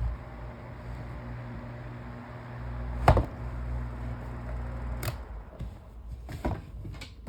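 Knocks and clicks of plastic fan parts being handled and fitted together during reassembly, the loudest about three seconds in and a few more near the end, over a steady low hum.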